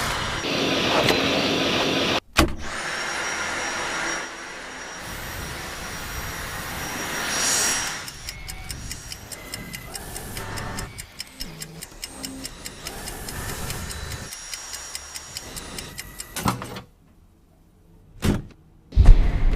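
Cordless vacuum cleaner running in short edited sections, then a long run of rapid, evenly spaced mechanical clicks.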